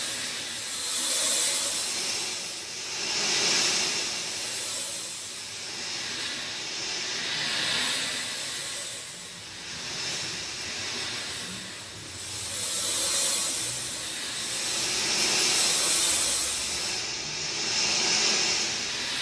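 Rain falling as an even hiss that swells and eases every two to three seconds.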